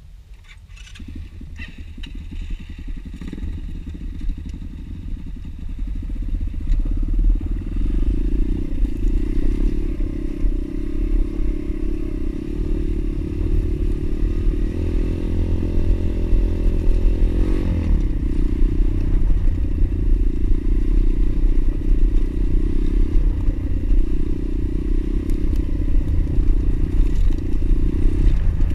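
Pit bike engine running under way, with some clatter. The sound builds up over the first several seconds, holds steady, and shifts in pitch about halfway through.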